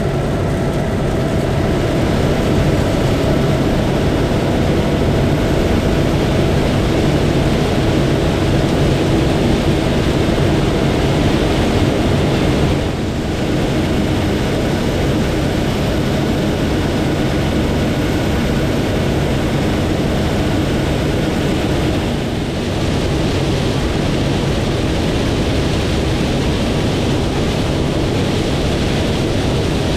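Heavy corn-harvest machinery running at a steady, loud drone, with a few steady tones riding on it and two short dips in level, about halfway and two-thirds of the way through.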